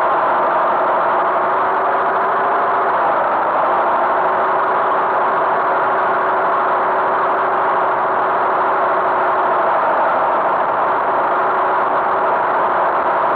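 Tractor engine running steadily, with an even drone that does not rise or fall.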